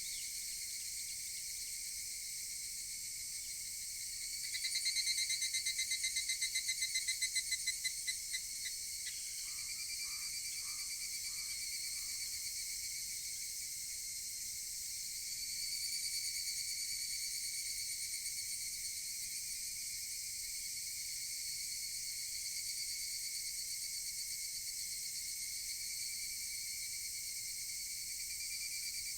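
Higurashi (evening cicadas) calling in a steady chorus. About four seconds in, a nearer one gives a loud, rapidly pulsed call that lasts about four seconds and trails off.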